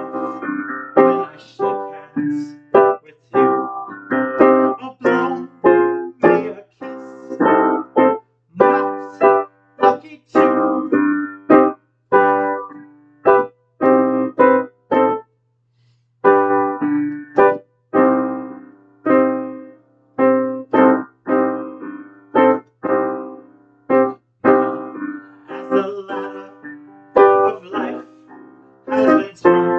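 Piano chords struck one after another, each ringing and fading before the next, with a brief pause about halfway through.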